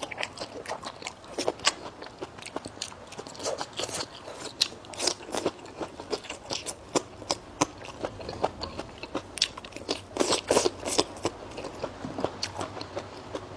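Close-up chewing of wild fern with crisp, irregular crunches and wet mouth clicks, several a second.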